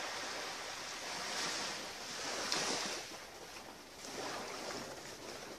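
Sea waves breaking and washing up a beach, the rush of surf swelling and easing a few times, loudest about two and a half seconds in.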